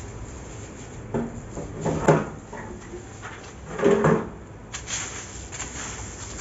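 A few short scraping knocks, the loudest about two seconds in, from sweeping up leaves with a broom and a homemade sheet-metal dustpan.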